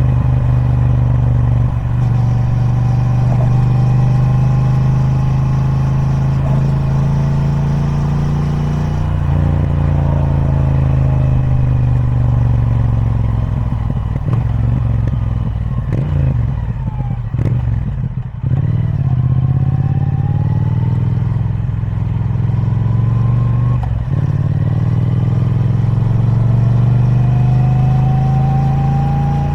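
Triumph Speed Twin 1200's 1200cc parallel-twin engine on its stock exhaust, under way. The engine note climbs steadily through long pulls, drops away and falls as the bike slows past the middle, then climbs again twice more.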